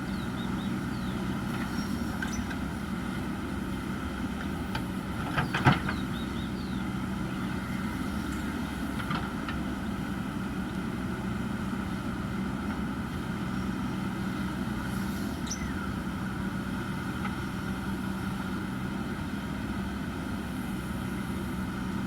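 Diesel engine of heavy earthmoving machinery running steadily, with one loud knock about five and a half seconds in.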